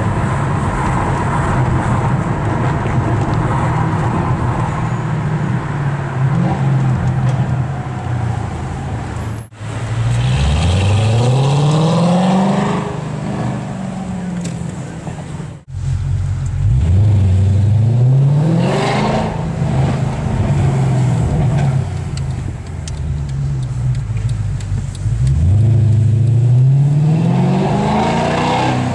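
Mercedes C63 AMG Black Series 6.2-litre V8 through an IPE aftermarket exhaust, accelerating hard three times with the note climbing steeply on each pull, between stretches of steadier running. The sound breaks off abruptly twice.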